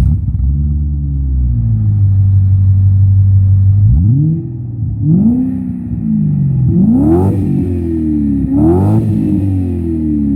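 BMW E34 engine and exhaust running steadily, then revved several times in quick blips, each climbing in pitch and dropping back, the biggest two near the end.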